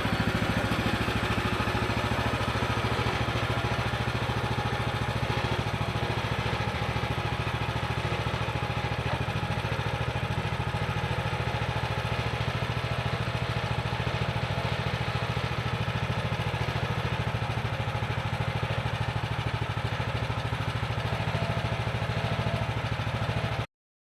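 Woodland Mills HM130MAX sawmill's small engine running steadily, cutting off suddenly near the end.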